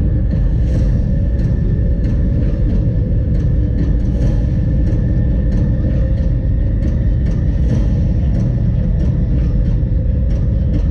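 Steady low rumble of a moving vehicle heard from inside, with a faint steady hum and frequent light clicks and rattles over it.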